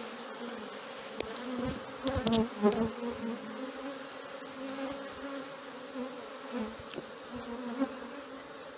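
A large number of honey bees buzzing in flight around an opened hive: a dense, wavering hum. The colony is stirred up by the hive being opened. A few knocks and bumps come about two seconds in.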